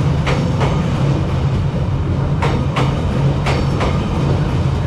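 Train rolling slowly past at close range: a steady low rumble, with its wheels knocking over the rail joints in pairs, about one pair a second.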